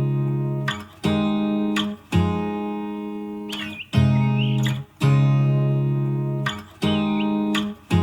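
Music: an acoustic guitar strumming chords about once a second, each chord ringing and fading before the next strum.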